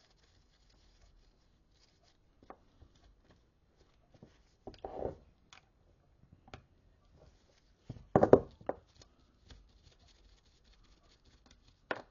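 Hand work on a gearbox clutch centre: sparse light clicks and knocks of small metal parts and tools being handled, with two louder clatters about five and eight seconds in.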